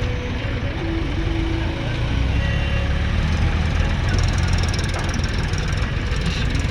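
Heavy diesel machinery engine running steadily with a low rumble, as a backhoe loader digs and loads tractors.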